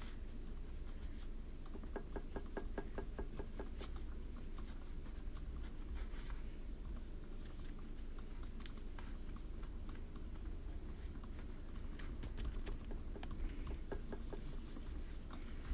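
Light, quick dabbing and tapping on paper while blending a watercolour background, with a fast run of soft taps about two seconds in.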